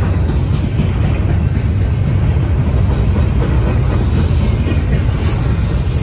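Double-stack intermodal freight train's container well cars rolling past close by: a steady, loud rumble of steel wheels on rail, with a few faint clicks.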